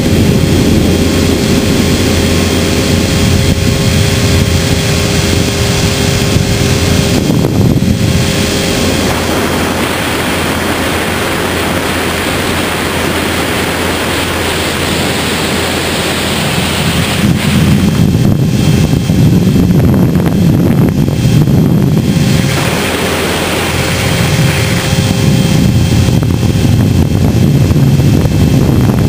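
HK500 radio-controlled electric helicopter flying, heard from a camera mounted on it: a steady motor and rotor whine over rushing air. The sound shifts in strength several times as it manoeuvres.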